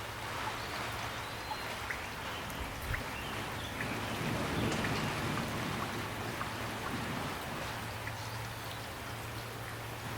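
Steady rain falling, with scattered drops ticking on a surface. A low rumble swells briefly about four to six seconds in.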